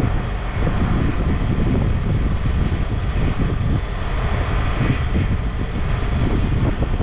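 Steady, loud rumbling noise of machinery running, without pauses or distinct impacts.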